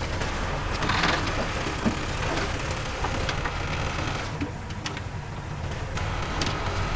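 Heavy diesel earthmoving machine running with a steady low rumble, with scattered cracking and crunching clicks from dirt and debris being moved, and a short louder crunch about a second in.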